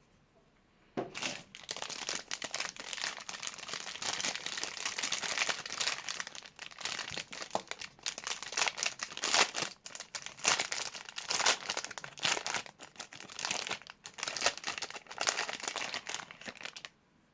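Duru soap bar's wrapper crinkling and crackling as it is unwrapped by hand, with dense, uneven crackles. It starts about a second in and stops suddenly near the end.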